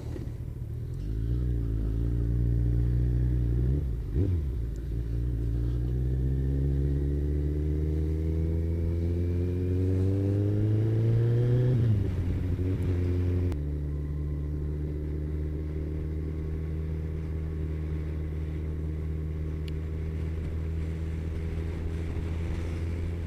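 Motorcycle engine, a Kawasaki ZZR1400's inline-four, under way. Its pitch dips briefly about four seconds in, then rises steadily for several seconds as it accelerates and falls back about halfway through. After that it runs at a steady pitch at cruising speed.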